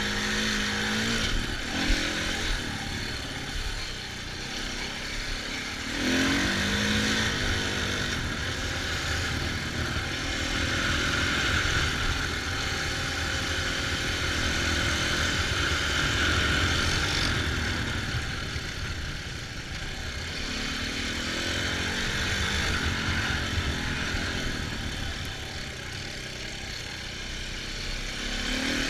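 Off-road vehicle engine being ridden, revving up and easing off repeatedly, with the pitch climbing about 6 s in and again near the end, over a steady rushing noise.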